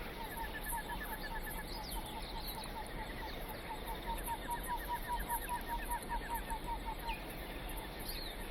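Bird-like calls: long runs of quick repeated chirping notes, about five or six a second, with a short break about two seconds in. The calls stop about seven seconds in.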